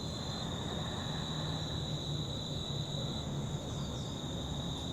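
A steady, high-pitched insect chorus drones without a break, over a low rumble of outdoor background noise.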